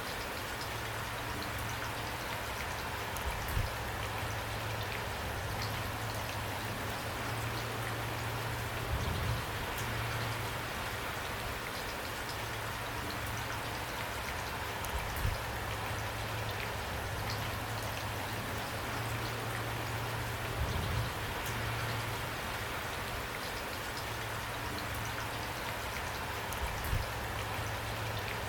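Steady rain falling, with scattered drops ticking. A few louder low thuds come roughly every six seconds.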